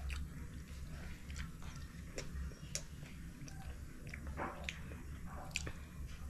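A child biting and chewing soft, wet food, kina (sea urchin roe), close to the microphone: scattered wet mouth smacks and clicks over a low steady hum.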